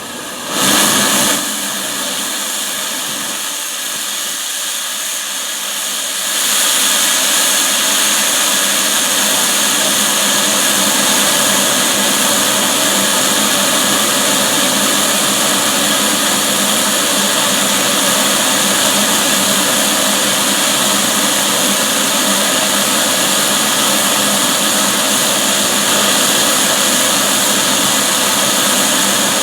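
Loud, steady mechanical hissing noise with a faint hum of steady tones in it. It swells briefly about a second in, then steps up about six seconds in and holds level.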